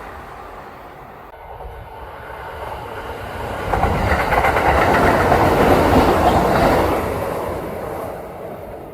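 Kintetsu electric train passing, its wheels clacking over the rail joints. It builds up, is loudest in the middle of the pass, and fades toward the end.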